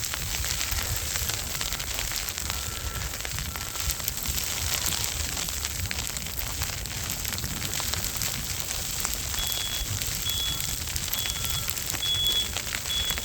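Steady crackling hiss of a snowstorm, with wind rumbling on the microphone. Faint short beeps repeat at an even pace in the first few seconds and again from about three-quarters of the way through.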